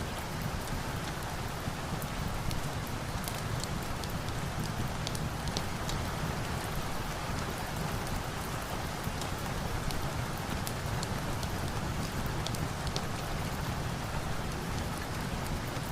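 Steady rain falling, an even wash of noise with scattered sharp high clicks of drops throughout.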